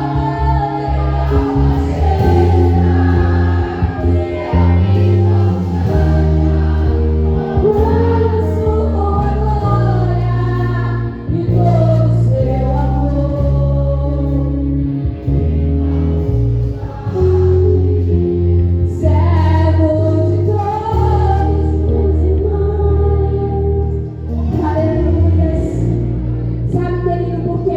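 Gospel worship music: voices singing a praise song together over amplified band accompaniment with a heavy bass.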